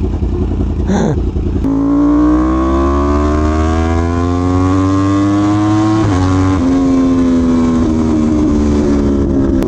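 Yamaha R1M's crossplane inline-four engine pulling under light throttle on a rain-soaked road, its pitch climbing slowly, then dropping sharply about six seconds in at a gear change and sinking slowly as the bike eases off. A steady hiss of wind and wet-road spray runs underneath.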